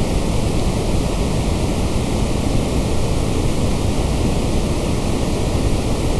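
Continuous synthetic white noise: an even, unchanging hiss with no breaks or events.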